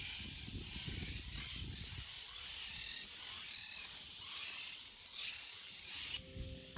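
Dense, steady buzzing hiss of an insect chorus, swelling and fading in pulses, over low rumbles of wind or handling on the microphone. It cuts off suddenly near the end.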